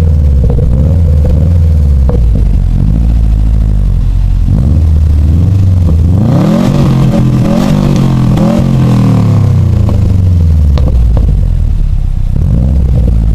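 2013 Subaru WRX's turbocharged 2.5-litre flat-four being revved through a custom 3-inch straight-back exhaust with an HKS rear muffler. It winds down from a rev at the start, climbs to its highest rev about six to seven seconds in, then falls back to a steady idle near the end.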